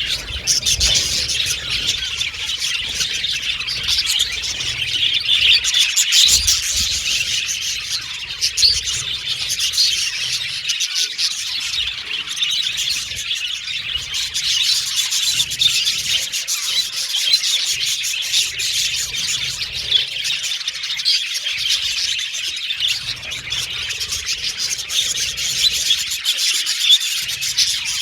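A flock of budgerigars chattering and warbling continuously, many dense, overlapping chirps and squeaks.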